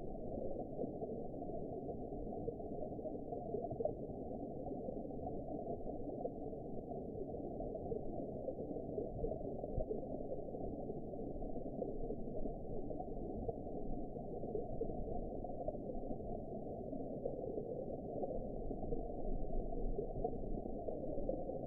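Underwater ambience: a steady, muffled rush of water, dull and low-pitched, with small swells in level.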